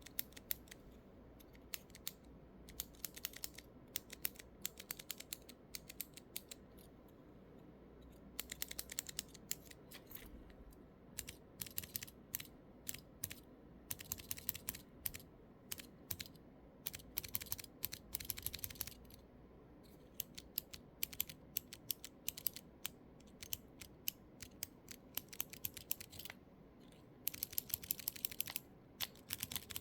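Keyboard key switches clicking in quick irregular runs, like typing, with short pauses between the runs.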